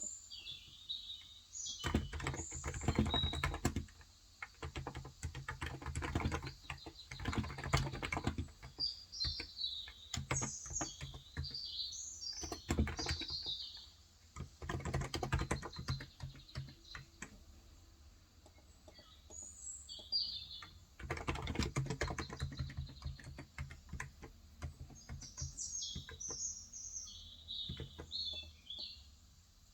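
Typing in bursts of rapid keystrokes on a Cox Endeavor electrostatic-capacitive (contactless) 35 g tenkeyless keyboard, pausing for a few seconds between bursts. Small birds chirp in short, high twitters throughout.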